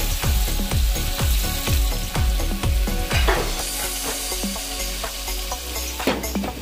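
Food sizzling and frying in a hot pan, a steady hiss. Under it, a low thudding beat repeats about three times a second and stops about halfway through.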